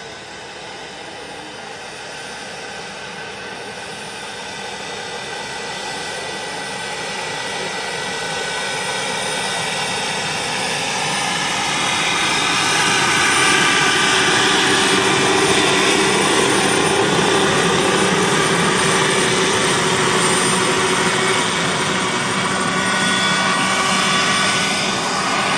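Radio-controlled scale model Mi-24 helicopter running, a steady whine of motor and rotors with several held tones over a rushing noise. It grows louder over the first half, then holds steady.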